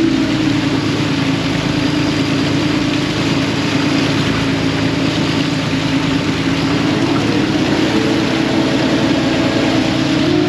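Fishing boat's engine running steadily, with a steady rushing noise over it.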